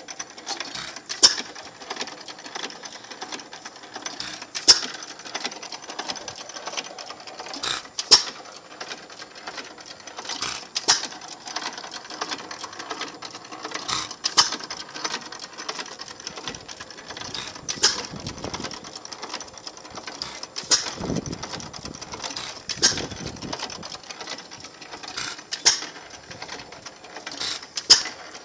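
Circa-1912 2 hp Sparta hit-and-miss engine running, with a sharp bang every three seconds or so as it fires. A light, steady mechanical clatter continues between firings as it coasts.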